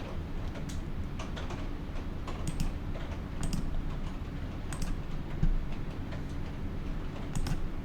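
Irregular clicking of typing on a computer keyboard, a few keystrokes a second, over a low steady background hum.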